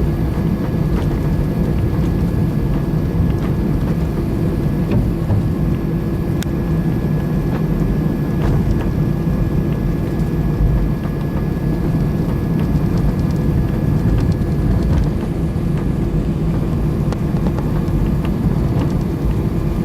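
Steady rumble and hum inside the cabin of an Airbus A321-200 on the ground, its engines at low power before the takeoff roll, with a few faint clicks.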